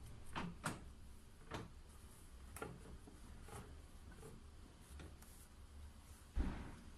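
Scattered light clicks and knocks, roughly one a second, over a low steady hum, with one louder thump near the end.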